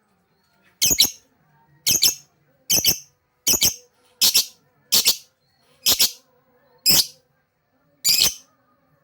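Lovebird giving a series of sharp, shrill screeching calls, about one a second, nine in all.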